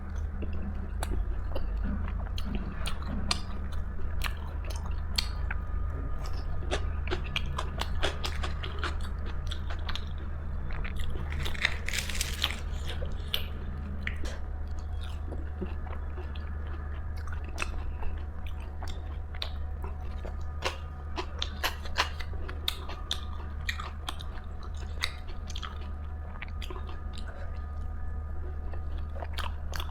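Close-up eating sounds: a person biting and chewing food with many short crisp crunches and mouth clicks, busiest about twelve seconds in, over a steady low hum.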